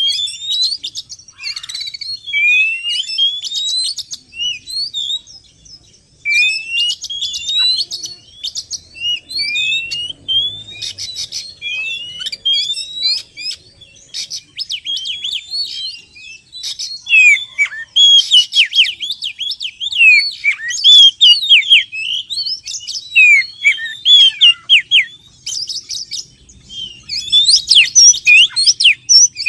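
Oriental magpie-robin (kacer) song, played as a bird-trapping lure call: quick rising whistles and chattering notes repeated in phrases. It grows louder and busier about halfway through.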